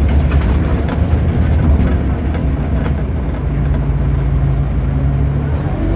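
Scania CN230UB Omnicity bus's 9-litre five-cylinder diesel engine running steadily, a low drone heard from inside the bus. A steadier low hum comes in about halfway through.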